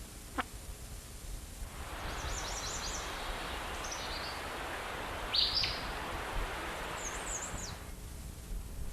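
Birds chirping in short high bursts over a steady rustling outdoor ambience, with one louder chirp a little past the middle. A brief falling whistle comes just after the start.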